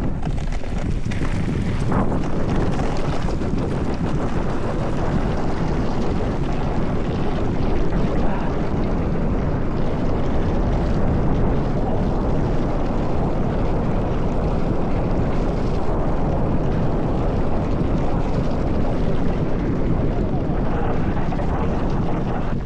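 Mountain bike descending a dirt trail: a steady, dense rumble of tyres on rough ground and the bike rattling, with wind buffeting the microphone.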